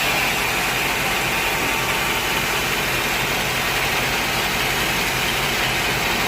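A machine's engine running steadily with a constant hiss, without cutting.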